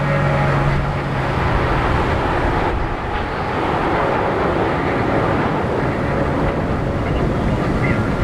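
Jet noise from a formation of Aermacchi MB-339 PAN jets flying past: a loud, steady rush that swells about four seconds in. Public-address music fades out within the first two seconds.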